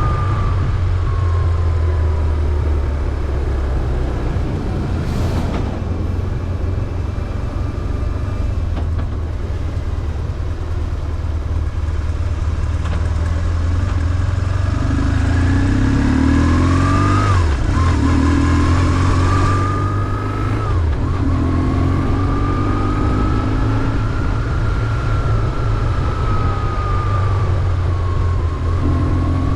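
BMW R1150GS air-cooled boxer twin engine running under way, its pitch rising and falling with the throttle. In the middle the revs climb and then drop sharply twice, as at gear changes.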